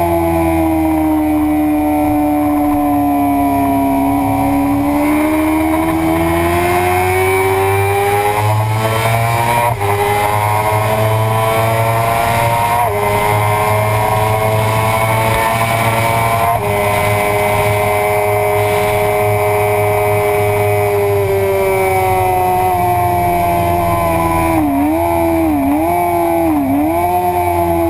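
Suzuki sportbike engine at racing speed, heard from the bike itself over a constant low rush of wind. The engine note falls, then climbs for several seconds with brief breaks around the middle, holds steady, falls again, and wavers up and down three times near the end.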